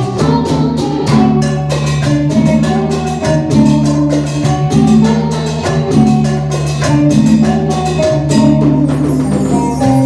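Live cumbia band playing an instrumental passage: a steady bass line and sustained chords under a fast, even run of percussion strokes.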